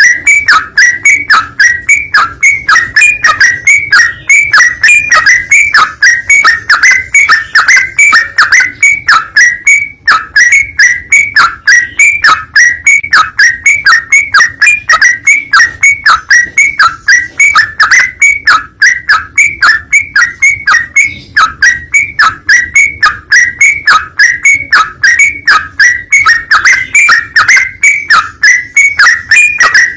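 Yellow-vented bulbul calls repeated rapidly and evenly, about three to four short notes a second, with a brief break about ten seconds in.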